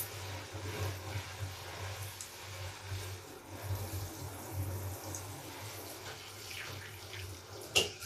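A large soapy bath sponge being lathered and squeezed by hand, giving steady wet squishing with soapy water. There is a sharp click near the end.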